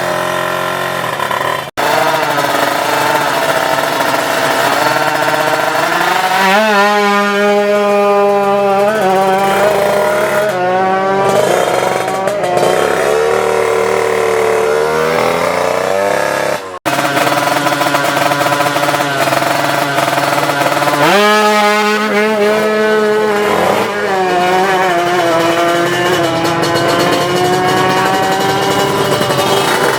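Two-stroke drag-bike engines at high revs, the pitch climbing steeply and falling again several times as they accelerate. The sound breaks off sharply about 2 s and 17 s in, where separate runs are cut together.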